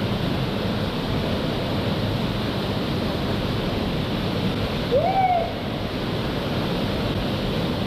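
Steady rush of a waterfall's falling water. About five seconds in, one short call rises and falls in pitch over it.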